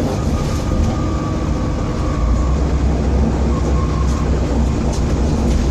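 Volvo B7TL double-decker bus under way, its engine giving a heavy low drone that grows louder about two seconds in, with a faint whine and a few rattles. The drone is the bad engine vibration this bus is known for.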